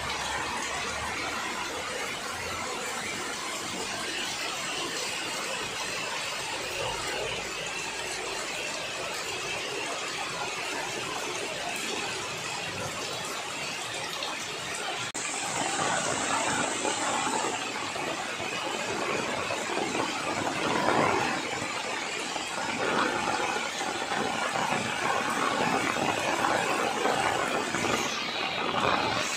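Heavy rain pouring down on foliage and tarpaulins, a steady hiss that grows louder and more uneven about halfway through.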